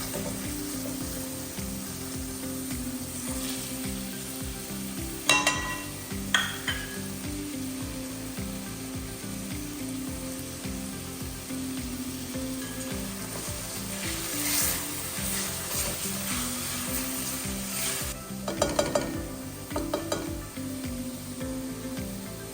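Food sizzling in a hot pan while it is stirred, with a metal spoon clinking against the pan a couple of times about five seconds in and again in a short cluster near the end.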